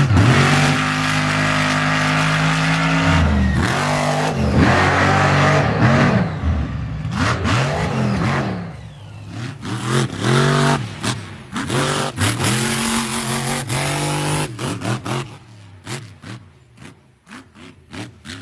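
Monster truck engine revving: held at high revs for the first few seconds, then revved and let off again and again in quick blips.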